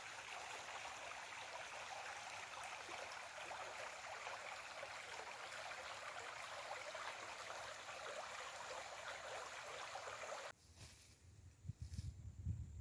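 A steady hiss of noise that cuts off abruptly about ten and a half seconds in, followed by a few low thuds near the end.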